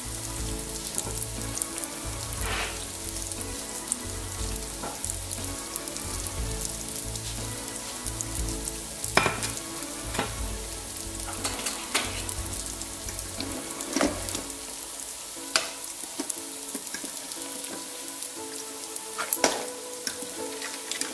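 Yeast-dough uštipak frying in hot oil, sizzling steadily with sharp pops every second or few.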